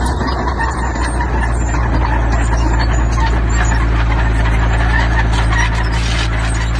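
Diesel engine of heavy earth-moving machinery running steadily under load, with a dense rattle of many small clicks over its low hum.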